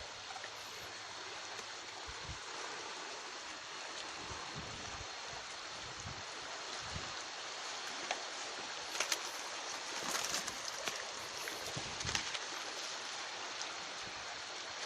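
Steady rushing of water, with scattered low thuds in the first half and a run of sharp clicks about two-thirds of the way through.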